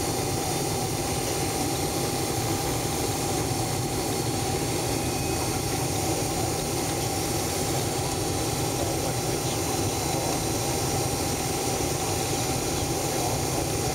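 Steady jet engine and airflow noise heard inside the cabin of a Boeing 767-300 airliner, with a thin steady whine over a constant rush.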